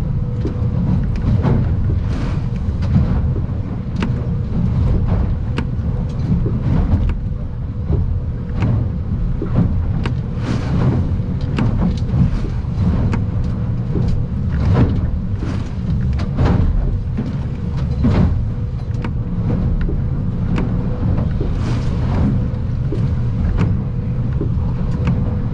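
Stabicraft 2050 Supercab aluminium boat underway in rough water, heard from inside the cabin: a steady low rumble of engine and hull with a thin steady hum, broken by frequent irregular slaps of waves and spray hitting the hull and windshield.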